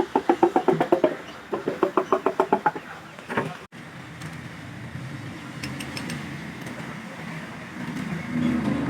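Two quick runs of sharp clicks, about ten a second and each about a second long, then a steady low hum that grows a little louder near the end.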